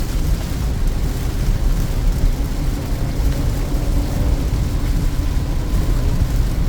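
Steady low rumble of a Peugeot 2008 driving uphill on a rain-soaked road, heard inside the cabin: engine and tyre noise with water spray from the wet surface. A faint engine tone climbs a little about three seconds in.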